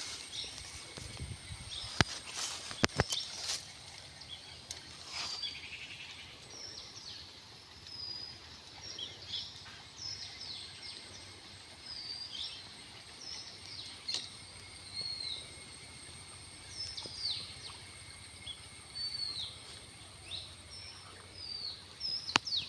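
Wild birds chirping: short, high, downward-sweeping calls repeated on and off throughout. A few sharp clicks come between about two and three seconds in, over a faint steady high-pitched whine.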